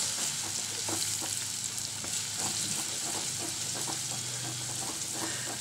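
Ginger-garlic paste sizzling in hot oil in a kadhai, a steady frying hiss, with a wooden spatula stirring through it and lightly scraping and tapping the pan. The raw paste is being fried to cook off its rawness.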